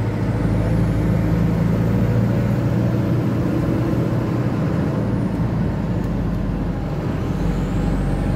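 Steady low engine hum and road noise heard from inside a car's cabin while following close behind a box truck.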